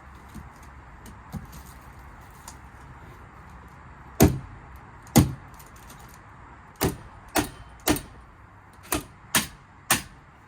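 A series of eight sharp knocks, irregularly spaced, starting about four seconds in, over a faint steady background hiss.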